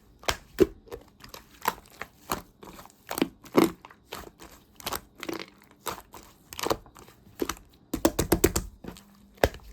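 Slime being squeezed and poked by hand, giving sharp clicking and popping sounds about one or two a second, with a quick run of pops about eight seconds in.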